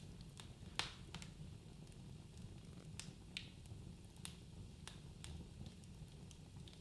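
Wood fire in a fireplace crackling: irregular sharp pops and snaps of burning logs, the loudest about a second in, over a low steady rumble of the flames.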